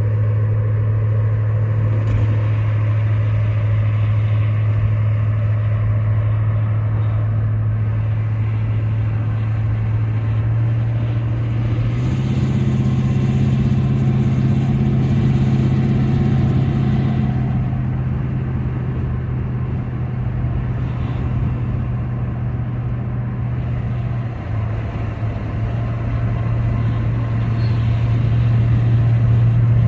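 Engine and exhaust drone of an older car heard from inside the cabin while driving, a steady low hum over road noise. The pitch steps up about twelve seconds in, drops back later, and climbs again near the end as the car speeds up.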